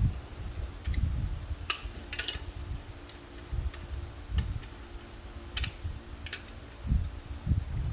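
Scattered light metallic clicks and low handling knocks of hand tools and bolts being worked on a transmission case.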